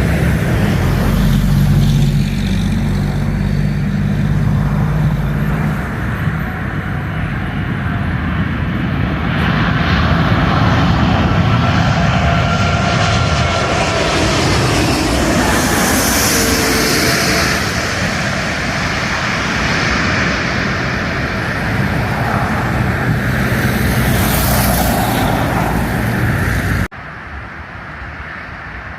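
Airbus A380 jet engines running loud and steady as the airliner passes on its landing approach, with a low droning hum. About 27 seconds in the sound drops off suddenly to a much quieter background.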